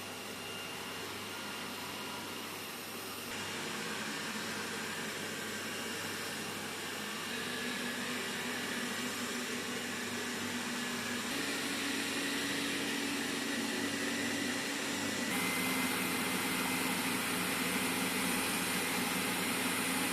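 Dreame D9 robot vacuum's suction fan running with a steady whirring hiss, stepping up in loudness and pitch in several stages.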